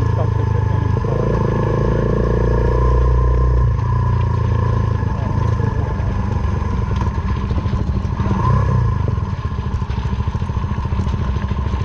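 Suzuki Van Van 125's single-cylinder four-stroke engine running through a full aftermarket exhaust as the bike is ridden along a rough dirt lane, its note shifting about four seconds in and swelling briefly later, with some clattering from the bike.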